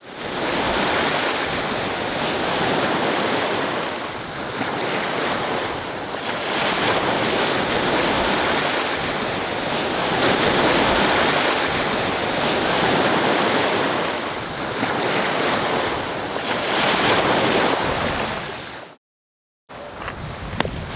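Sea waves breaking and washing on the shore in strong wind, the surf swelling and easing every few seconds. Near the end it cuts off abruptly to silence for a moment, then returns quieter with a few sharp clicks.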